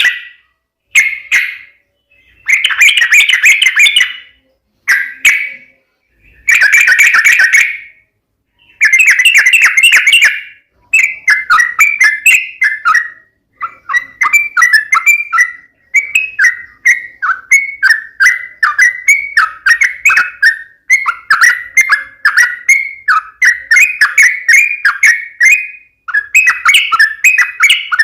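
Yellow-vented bulbul (trucukan) song. For about ten seconds it comes in short, loud bursts with pauses between them. Then it turns into fast, almost unbroken chattering, each quick note dropping in pitch.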